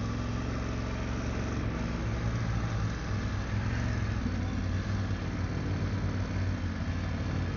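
BMW F900GS adventure motorcycle's parallel-twin engine running steadily on a dirt trail, with wind and tyre noise over it.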